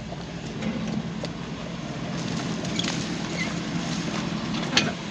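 Pickup truck engine idling steadily, with a single sharp click near the end.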